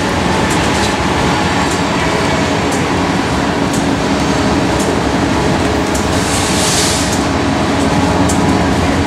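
Two freight trains on adjacent tracks: a grain train of covered hopper cars rolling past with a steady rumble and scattered clicks of steel wheels over the rails, under the running diesel engines of approaching BNSF freight locomotives. A brief hiss comes about six and a half seconds in.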